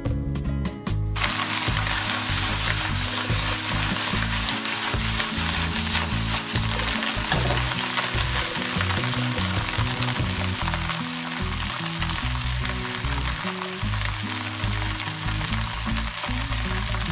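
Youmaicai (Chinese leaf lettuce) being stir-fried in oil in a nonstick wok, stirred with a spatula. A steady sizzle sets in about a second in and carries on.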